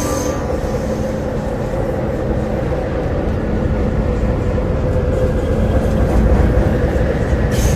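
MTR C-Train electric metro train running between stations, heard from inside the carriage: a steady rumble of wheels on track with motor noise, growing slightly louder toward the end, and a faint whine that steps up in pitch around the middle.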